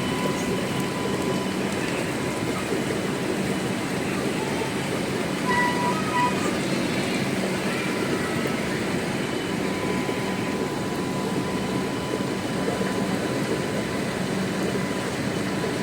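Train running along the track: a steady, continuous rumble.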